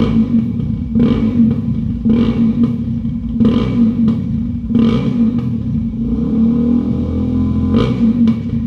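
Motorcycle engine running through an aftermarket exhaust: a steady low drone with short louder bursts about once a second.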